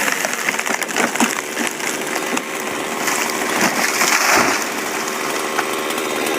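Chainsaw cutting into a tree trunk, its engine held at a steady speed under load as the chain bites through the wood.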